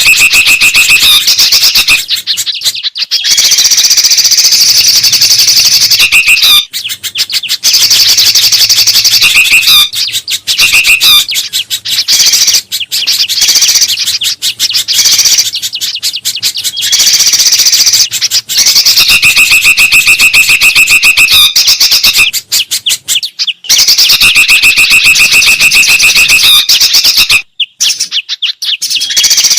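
Loud, dense bird-lure mix of songbird calls, such as bulbuls and a spiderhunter, chirping and trilling almost without a break. The same phrases come round again and again, with a few short pauses.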